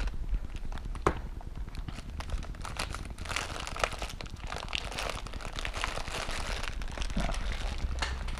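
Plastic ramen noodle wrapper crinkling and crackling as it is handled and worked open, with a sharp click about a second in.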